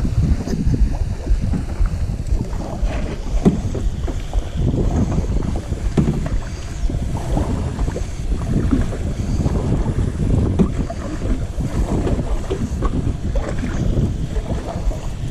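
Wind buffeting the microphone in a low, steady rumble, with the splashes and knocks of kayak paddle strokes in the water.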